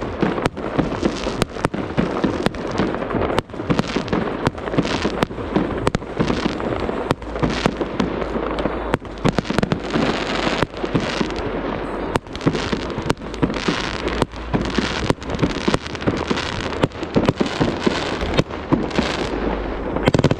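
Fireworks display going off without a break: sharp bangs two or three times a second over continuous crackling.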